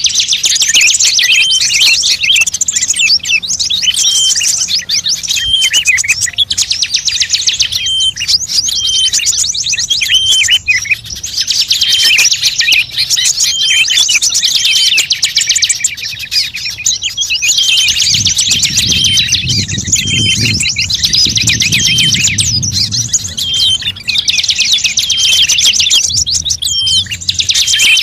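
Small songbird calling in fast, dense chattering trills, repeated in bursts every second or two, the kind of recording played to lure wild birds. A low rumble sits underneath for several seconds in the second half.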